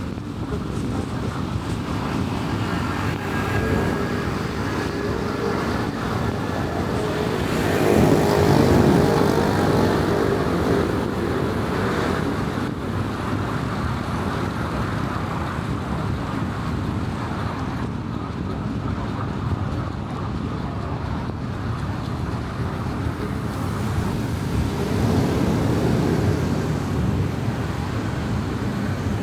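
A car driving on a highway: steady tyre, road and engine noise, with a louder swell about eight seconds in and a smaller one near the end.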